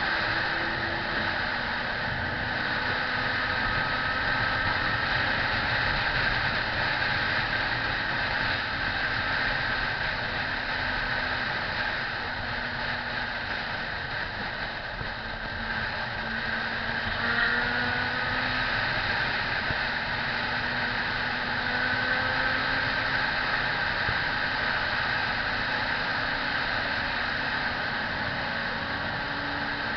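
Motorcycle running under way with steady wind rush over it, its engine note drifting gently up and down in pitch.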